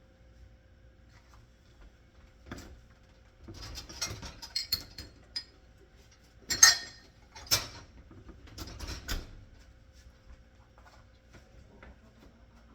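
Dishes and cutlery clinking and clattering in a handful of separate bursts, the loudest two about halfway through.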